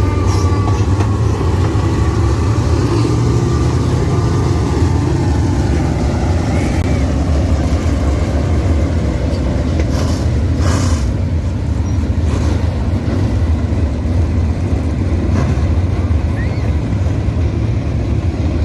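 Motor vehicle running steadily with a continuous deep rumble, the level even throughout, with a few brief clicks around the middle.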